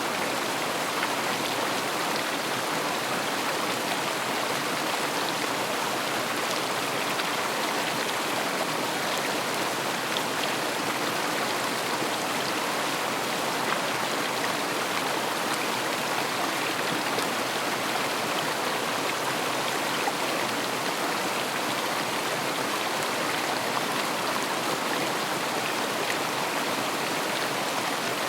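River water flowing and rushing steadily over its bed, a constant even wash with small splashes.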